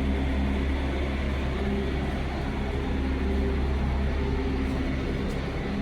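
An engine running steadily at idle: a low, even hum with a few steady tones above it.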